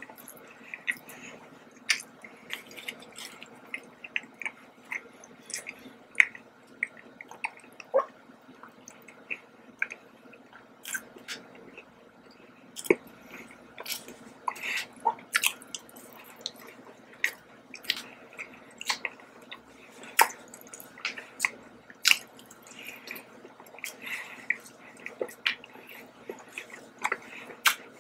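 Close-miked chewing of a soft chocolate-topped donut: steady wet mouth sounds with many short, sharp clicks and smacks, several a second.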